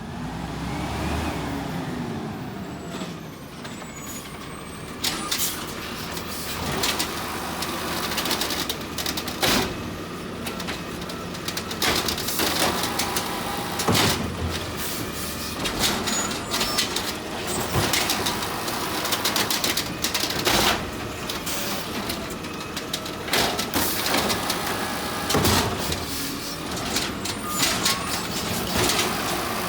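Garbage truck at work: its engine running under many sharp knocks and clatters, with a whine that rises and falls right at the start.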